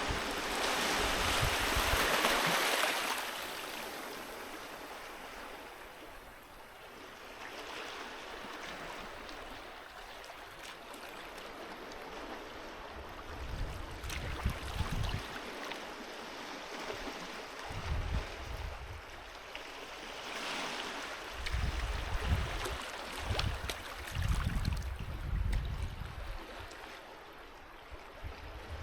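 Sea waves washing onto a beach and drawing back: a louder wash in the first few seconds and a weaker one about two-thirds of the way through. Low rumbling bumps come and go through the second half.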